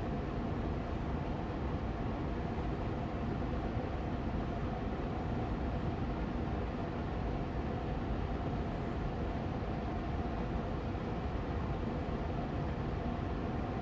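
Austin Air Allergy Machine air purifier fan running steadily on medium speed: an even rushing hum of moving air with a faint steady tone in it.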